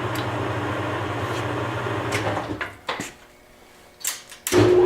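Webb WL435 17x40 gap lathe running with its power carriage feed engaged, then stopping about two and a half seconds in. A few clunks from the controls being shifted to reverse the feed, and the lathe starts again with a loud hum near the end.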